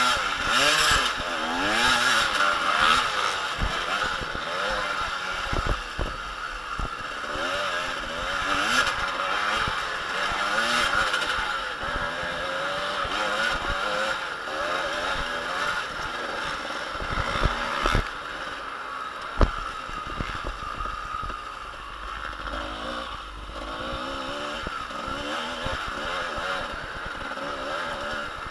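Several motocross bikes running on the track, their engines revving up and down as they ride. A sharp knock about two-thirds of the way through.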